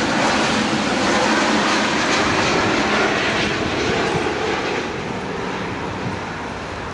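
Jet noise from an Airbus A350-900's Rolls-Royce Trent XWB turbofans on final approach: a loud, steady rumble and roar that fades slowly in the second half as the airliner passes.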